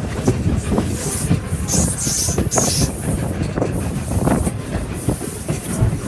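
Passenger train rolling along the track, its wheels clicking over the rail joints, with a brief hiss about two seconds in.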